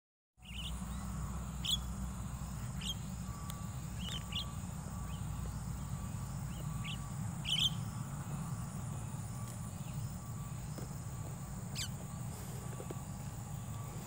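Short, sharp bird chirps every second or two, over a steady high insect drone and a low steady rumble.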